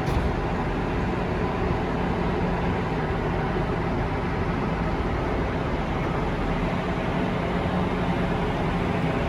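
Steady background rumble and hiss of a large space, with a faint steady hum under it and no distinct events.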